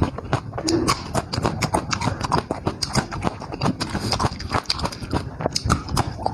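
Close-up eating sounds: wet chewing and lip smacks, a dense irregular run of sharp clicks several times a second.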